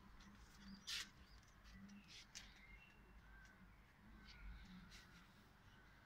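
Faint bird calls: short high chirps scattered through, and a run of soft repeated calls in the second half.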